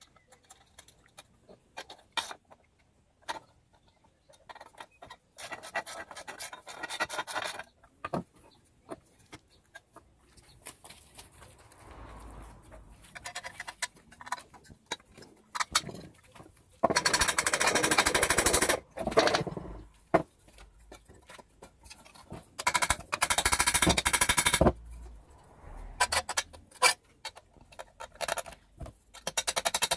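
Screws being driven to fix the side panels back onto an old arc welder, heard as about five bursts of rapid clicking, each around two seconds long, with handling knocks between them.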